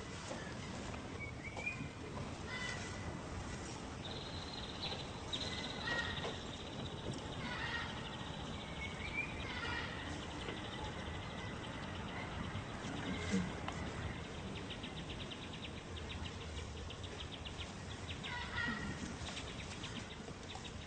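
Short, high, rising animal calls repeated every second or two. A steady high buzz with a rapid pulse runs under them from about four seconds in until near the end.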